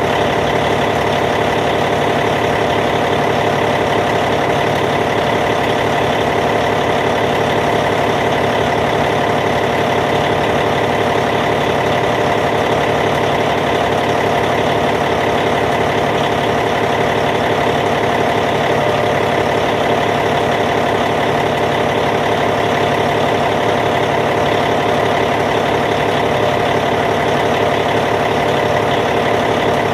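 Caterpillar C15 diesel engine of a Cat D8T bulldozer idling steadily.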